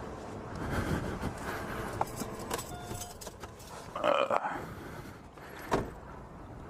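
Car keys jangling with scattered small clicks as they are taken out of the ignition, over a low outdoor rumble, with a sharp knock about two-thirds of the way through.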